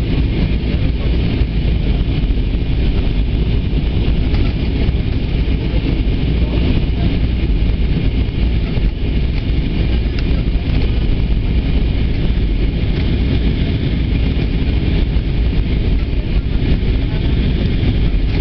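Steady cabin noise inside an Airbus A320 in flight: the even, unbroken rush of the jet engines and airflow, heaviest in the low end.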